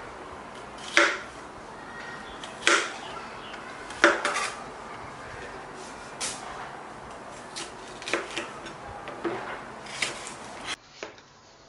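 Kitchen clatter: dishes and utensils clinking and knocking, one sharp knock every second or two over a steady background hiss. Near the end the hiss drops away and a few quieter clicks follow.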